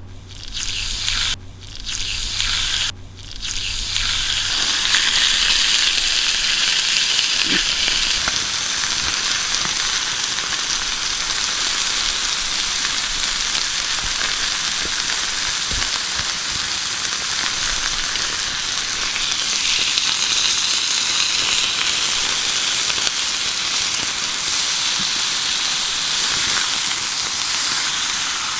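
Food frying in a pan with a steady sizzle. It cuts in and out twice in the first few seconds, then runs on evenly.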